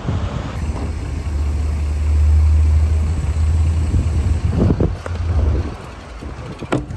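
A city bus's engine rumbling close by as it pulls up at the stop, loudest about two to three seconds in and dying away after about six seconds. A sharp click near the end.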